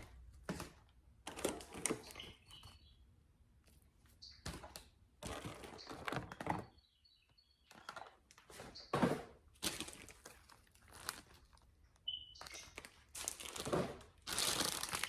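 Plastic grocery bags and packaging rustling and crinkling in short bouts, with light thunks of items being set down between quiet gaps.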